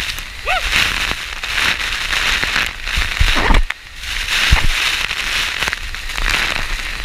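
Steady rush of a large waterfall, with wind hitting the microphone in irregular low thumps. A short rising-and-falling tone sounds about half a second in.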